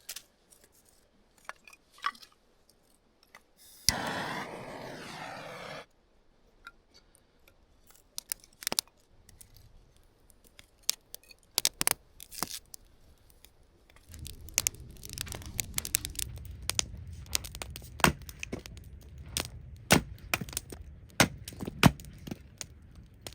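Campfire being lit with a ferro rod and a fire starter cube: a long rasping scrape about four seconds in, then scattered snaps and crackles of kindling, with a low rush of flames rising from about fourteen seconds.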